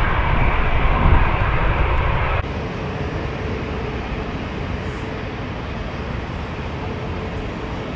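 Jet airliner engine noise, loud at first, dropping suddenly about two seconds in to a quieter steady rumble.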